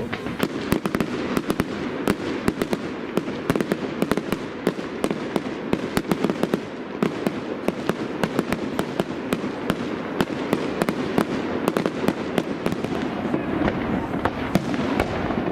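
Fireworks going off: many sharp bangs and cracks in quick succession, about three a second, over a steady rumbling din of more distant explosions.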